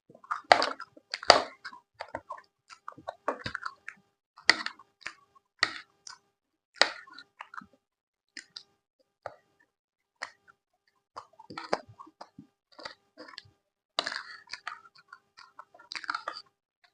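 Close-miked chewing: a person eating, with irregular moist mouth sounds and bites coming in uneven clusters, loudest in the first couple of seconds.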